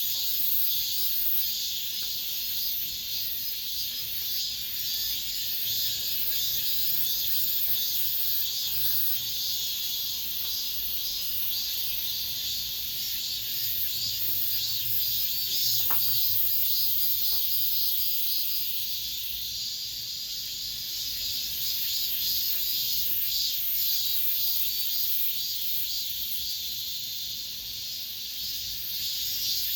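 Cicadas singing in a dense chorus: a steady, high-pitched buzzing drone.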